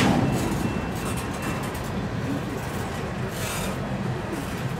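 Boxcars of a long freight train rolling past on steel rails: a steady rumble of wheels on track, with a brief higher-pitched hiss about three and a half seconds in.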